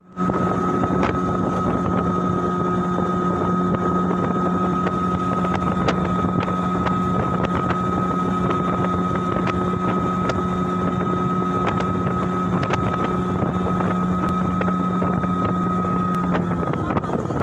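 A boat's motor running steadily under way: an even drone with a constant high whine, and wind buffeting the microphone.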